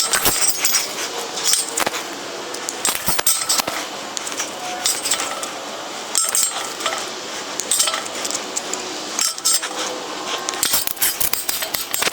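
Small metal pieces clinking and clattering as they are handled, in many irregular sharp clinks.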